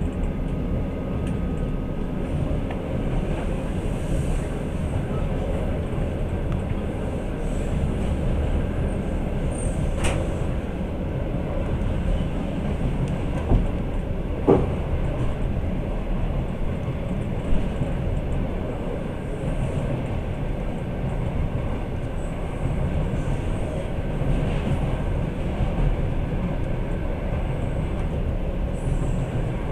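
Passenger train running, heard from inside the carriage: a steady low rumble of wheels on the rails, with a few sharp clicks near the middle.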